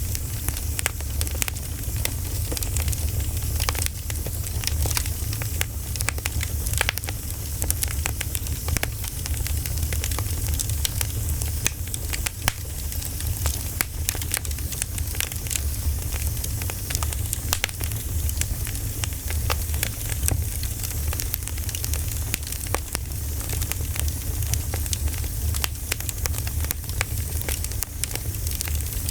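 Campfire crackling: a steady low rumble and hiss of burning wood, with frequent sharp pops and snaps scattered throughout.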